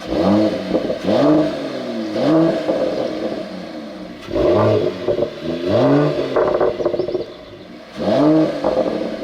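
Mercedes-AMG CLS53's turbocharged 3.0-litre inline-six being revved again and again. The engine note climbs and falls back six times in quick surges.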